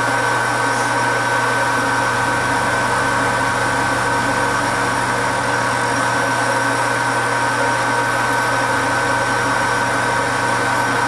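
Heavy metal lathe running steadily: a constant hum with a steady high whine. A parting-off tool is being fed slowly into the spinning workpiece, cutting without chatter.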